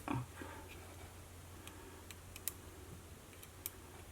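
A handful of faint, sharp little clicks, spaced apart, from a small tool and the spring on a Sony WM-B18 Walkman's tape mechanism as the spring is worked off.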